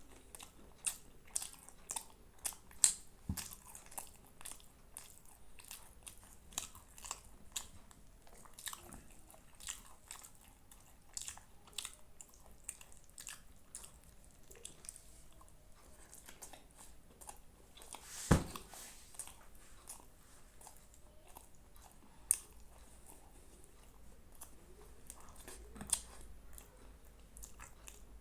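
Close-miked chewing and biting of Indian food, with many short wet clicks and crunches, denser in the first half, and one louder knock about two-thirds of the way through.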